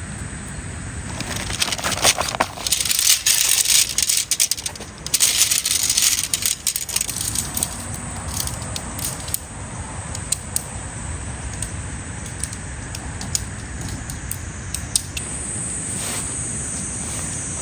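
Bursts of rustling and crinkling from material being handled, loudest in the first seven seconds, then scattered light clicks. Under it runs a steady high insect trill that grows louder near the end.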